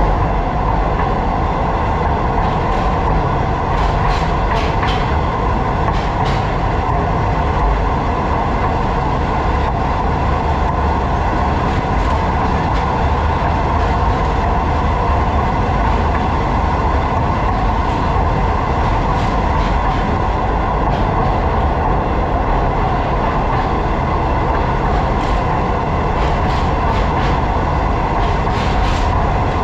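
Train running at speed over a bridge rail deck, heard from on board: a steady rumble and rolling wheel noise on the rails, with occasional light clicks.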